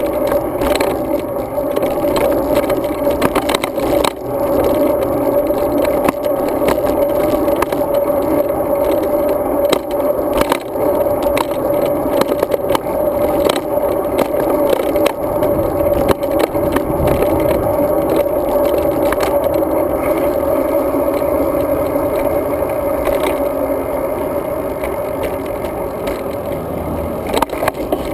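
Steady muffled rumble of a road bike rolling over pavement, picked up by a GoPro mounted on the bike, with frequent small clicks and rattles from road bumps.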